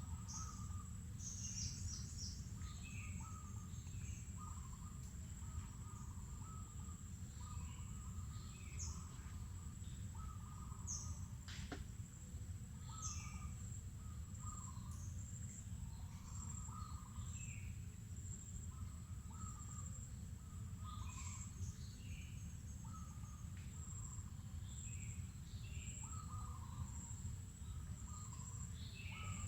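Mangrove forest ambience: several birds call again and again with short chirps and down-sliding notes, over a steady high-pitched insect drone and a low steady rumble. A single sharp click comes about twelve seconds in.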